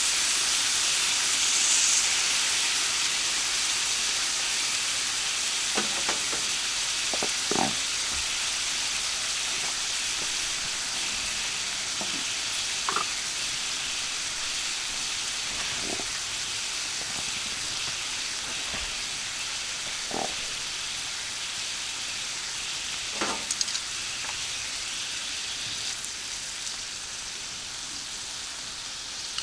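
Beef kalbi sizzling on a hot iron griddle, a steady frying hiss that slowly grows quieter, with a handful of short clicks scattered through it.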